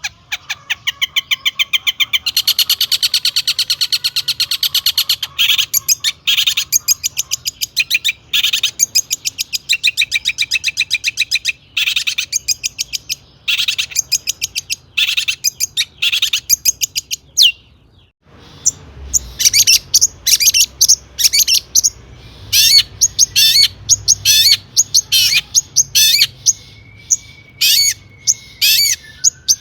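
Long-tailed shrike singing continuously in fast, harsh chattering runs of high-pitched notes, a song full of mimicked calls of other birds. There is a brief break past the middle before the chatter resumes.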